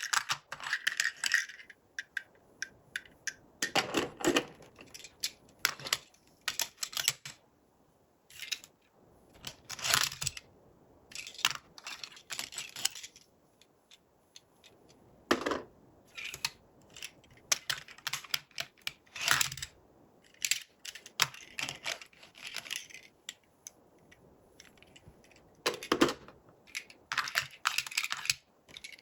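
Toy packaging and plastic toy parts being handled and unboxed by hand: irregular clicks, crinkles and scrapes with short pauses between them.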